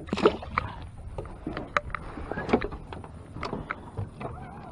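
A series of sharp knocks and clicks of handling aboard a small fishing boat, the loudest just after the start, over a low steady background hum.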